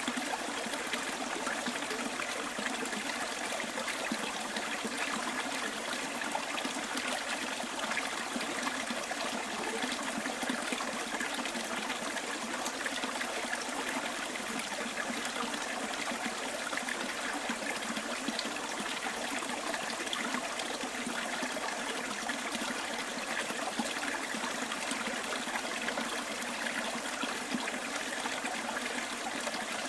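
Stream water flowing and trickling over its bed, a steady even rush with no pauses.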